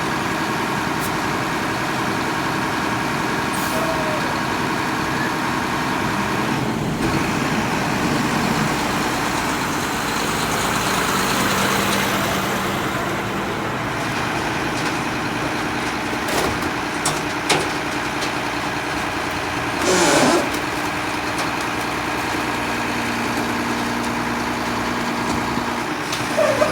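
A Mack front-loader garbage truck's diesel engine runs steadily, with a broad mechanical swell in the middle. A few sharp clanks come near the two-thirds mark, and a short loud burst about twenty seconds in.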